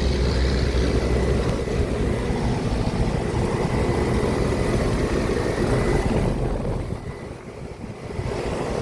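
Commercial air-conditioning condensing unit running in cooling mode: a steady compressor hum and fan noise with a thin, high, steady whine. The sound softens for a moment about two-thirds of the way through, then comes back.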